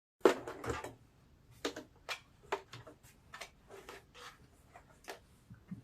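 Irregular clicks, taps and rustles of fabric and sewing tools being handled on a work surface, with the loudest right at the start.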